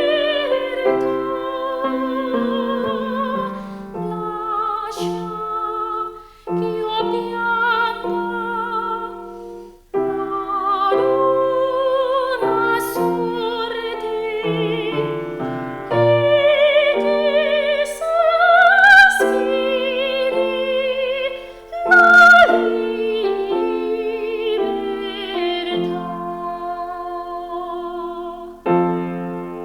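A classical, operatic-style voice sings with wide vibrato over piano accompaniment, the melody climbing to a high held note about two-thirds of the way through.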